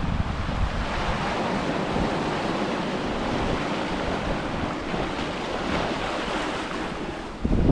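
Ocean surf washing onto a beach, a steady hiss of breaking waves that swells and eases. Near the end a gust of wind buffets the microphone with a low rumble.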